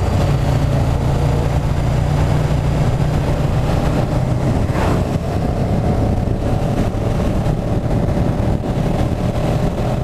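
KTM 1290 Super Duke GT's V-twin engine running steadily under way at an even pitch, with a brief rush of noise about halfway through.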